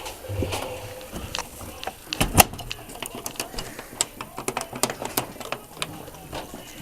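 Scattered light clicks and knocks, with one sharper knock a little over two seconds in, over faint indoor room noise.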